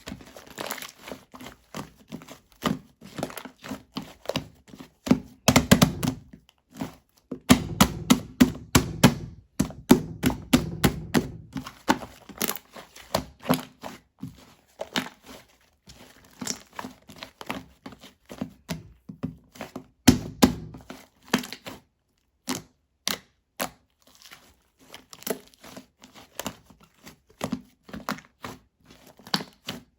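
Green shaving-foam slime being squeezed and pressed by hand, making many small clicks, pops and crackles in irregular runs, thickest in a few longer spells of squishing.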